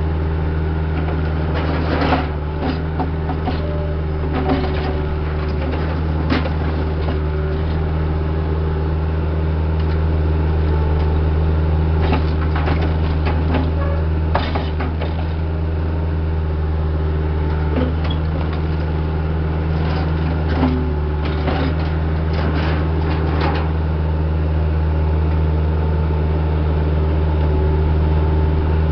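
Heavy-equipment diesel engine running at a steady speed, with scattered short knocks and rattles over it.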